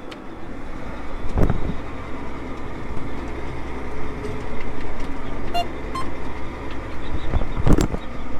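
A motor vehicle running, heard from on board: a steady low rumble with road noise and a couple of knocks, one about a second and a half in and a louder one near the end.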